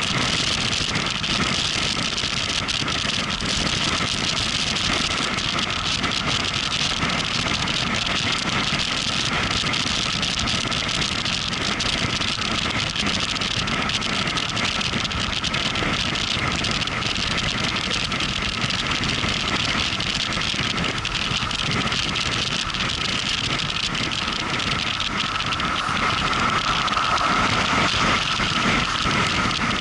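Motorcycle on the move: steady engine and wind noise, with a thin steady whine that grows slightly louder near the end.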